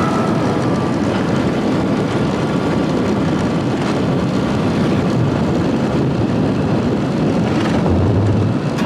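Steady rush of wind and road noise while riding a motorcycle.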